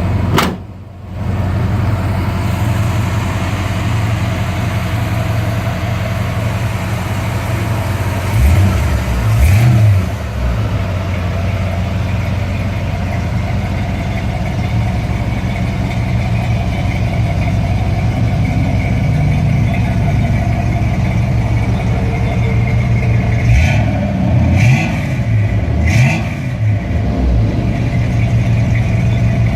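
1953 Chevrolet 210's straight-six engine idling steadily, revved briefly about eight seconds in and several more times near the end.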